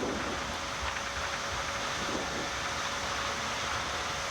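Boeing 787 flight-deck noise during the landing rollout, with the thrust reversers still deployed as the airliner slows below eighty knots: a steady rush of air and engine noise with a faint steady hum.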